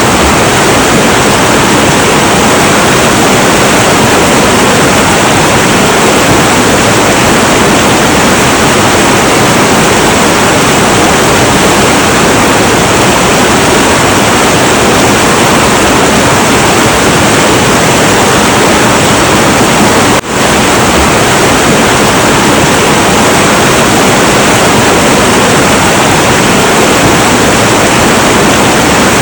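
Heavy, turbulent river water rushing in a loud, steady, dense roar, with one momentary dip in level about two-thirds of the way through.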